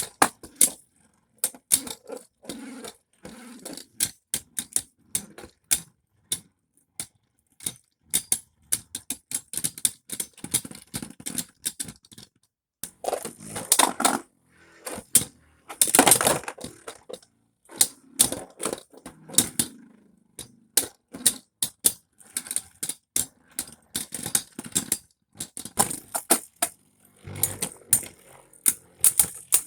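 Beyblade spinning tops clashing and knocking together: rapid, irregular clicks and clacks, with a couple of longer, louder bursts of collisions about halfway through.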